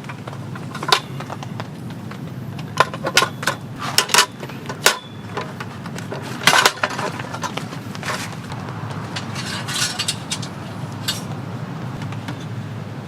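Metal camp cookware and utensils being handled, giving irregular sharp clinks and knocks in small clusters, the loudest a little before the middle, over a steady low background noise.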